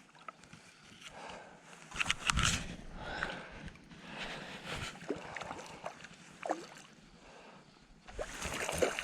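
Faint, broken sloshing and splashing of water as a small hooked trout is played in, with a steadier splashing starting near the end.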